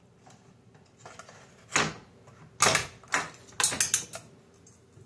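Sharp clicks and knocks of a disassembled Xbox Series S's plastic and metal parts being handled: one near two seconds in, then a quick irregular run of taps around three to four seconds.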